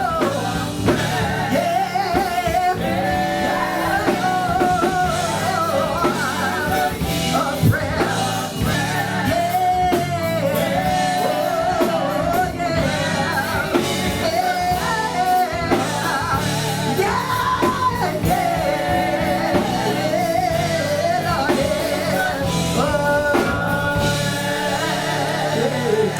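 Live gospel music: singing with a band playing behind it, drums and guitar among the instruments.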